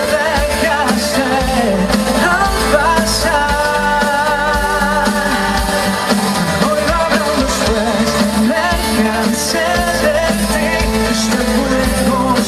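Live band music with a singer, a pop-rock song played through a PA system.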